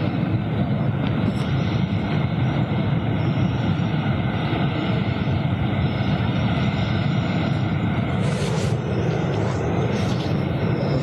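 A geothermal steam vent blasting pressurized steam in a steady, loud rushing roar that does not let up.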